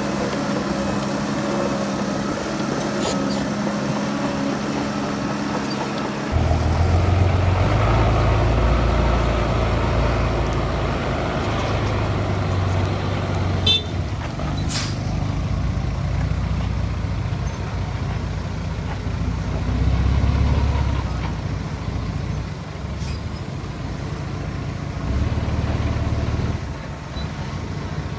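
Heavy diesel engines of earthmoving machinery (bulldozer and dump trucks) running under load, their low rumble swelling and easing. The sound changes abruptly about six seconds in, and there is a single sharp click about halfway through.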